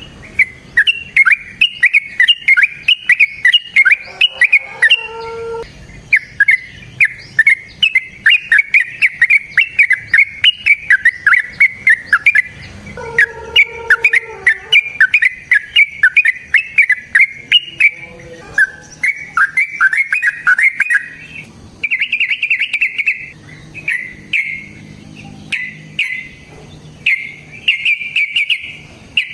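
Lovebird's long chattering call (ngekek): long runs of rapid, shrill chirps, many a second, each run lasting several seconds. Near the end the calling breaks into shorter separate bursts. A lower call joins in twice.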